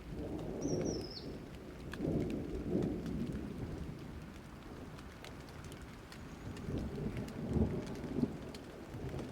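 Thunderstorm: steady rain with scattered drop ticks, and thunder rumbling in low swells a few times. A brief high falling chirp comes about half a second in.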